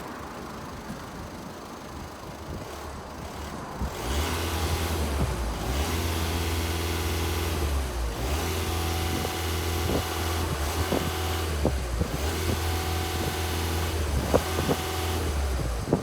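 A vehicle engine just after an engine cleaning, idling and then revved about 4 s in and held at raised revs, dipping briefly a few times, with small pops. The owner feels the engine seems to choke ("давится") as it is revved.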